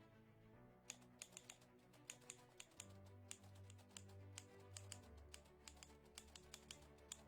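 Soft background music with low held bass notes, overlaid with quick, irregular computer-keyboard typing clicks that begin about a second in.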